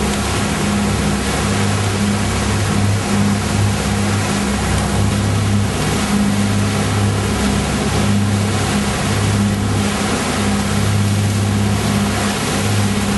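A motor running at a steady low hum that wavers in strength, over a loud, even rushing noise.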